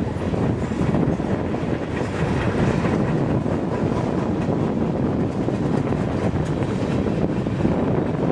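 Train rolling past with a steady rumble and faint irregular clicks of wheels over the rails. Wind buffets the microphone.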